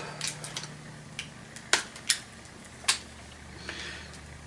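Scattered sharp clicks and knocks of hard plastic and metal parts being worked loose as a vacuum cleaner motor is pried apart by hand, the loudest two a little under and just after two seconds in.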